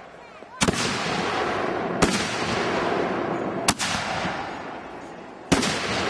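Consumer 60-gram firework mortar shells going off one after another in a fused chain: four sharp bangs about one and a half to two seconds apart, each trailing off into a long noisy tail.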